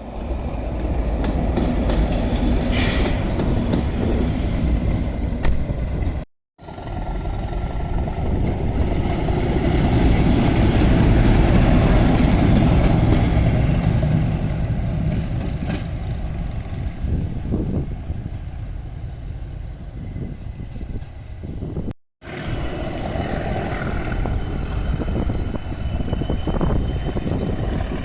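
A train running on a heritage railway line: a steady mix of rail and engine noise that swells about ten seconds in. The sound drops out to silence twice, briefly, about six and twenty-two seconds in, where separate recordings are joined.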